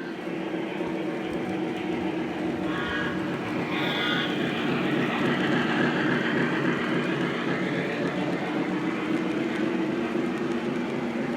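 Lionel O-gauge model steam train running on its track: a steady rumble and rattle of wheels on rail. Two short whistle-like tones sound about three and four seconds in.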